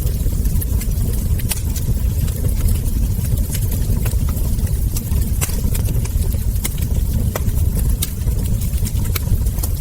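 Wood fire burning, with irregular sharp crackles and ember pops over a steady low roar.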